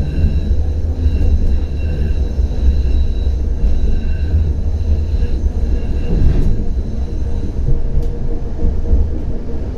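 CAF Urbos 100 tram running along the line: a steady low rumble with thin high whining tones that come and go, and a sharp click about eight seconds in.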